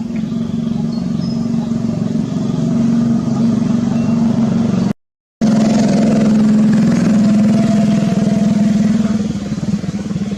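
A steady engine-like hum, loud and even, with a brief cut to silence about five seconds in.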